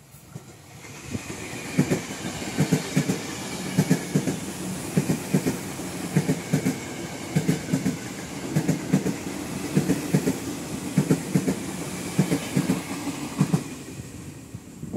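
Electric multiple-unit commuter train passing close by at speed: a steady rumble with a rhythmic clickety-clack of wheels knocking over the rail joints, in repeated groups of beats. It builds about a second in and fades near the end as the train draws away.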